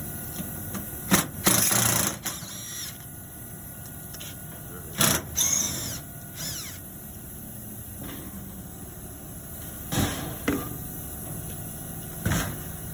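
Scattered knocks and short clattering, scraping bursts from handling tools or equipment panels, the longest and loudest of them about a second and a half in, over a steady background hum.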